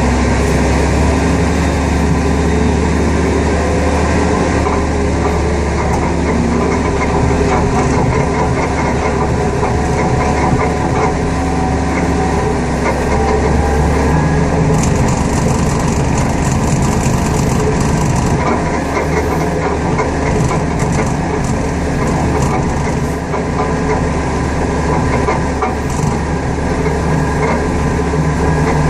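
Heavy engine running steadily at a constant low speed, a loud deep hum with a few held low tones, and faint clattering between about 15 and 18 seconds in.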